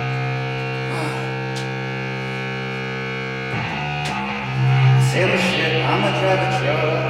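Distorted electric guitar playing: one chord rings out and is held for about three and a half seconds, then new chords are struck.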